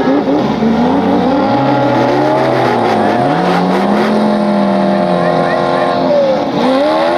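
Off-road 4x4 engine revving, its pitch climbing and falling several times under the throttle, with a deep dip and rise again near the end.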